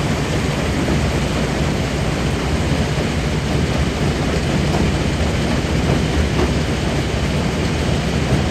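Jaw crusher plant running steadily while crushing stone: a dense, continuous low rumble with a grinding haze over it and no separate impacts standing out.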